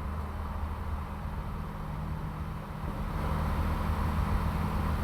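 Piper PA-38 Tomahawk's four-cylinder Lycoming engine and propeller at full takeoff power as the plane lifts off and climbs: a steady drone with a hiss that grows a little louder about three seconds in.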